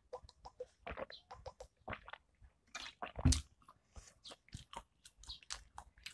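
Close-miked mouth sounds of someone chewing potato crisps: a run of small crunches, clicks and smacks, with one louder thump about three seconds in.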